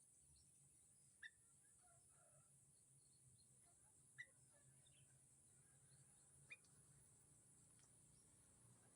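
Faint single short bird chirps, three of them a couple of seconds apart, over a steady high hiss.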